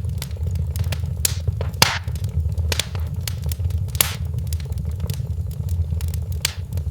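Wood fire in a fireplace crackling, with irregular sharp pops over a steady low rumble of the flames. The loudest pops come about two seconds and four seconds in.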